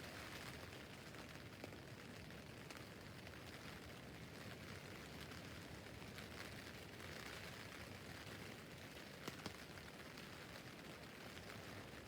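Steady rain falling on a tent roof, an even hiss of drops with a few louder single drops standing out.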